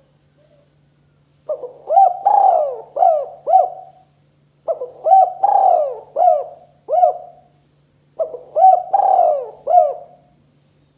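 Spotted dove cooing in the 'kuk 2' style: three phrases of four or five quick coos each, a call used as a lure to draw other doves.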